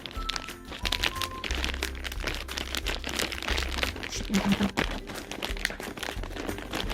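Parcel packaging crinkling and crackling as it is handled and opened.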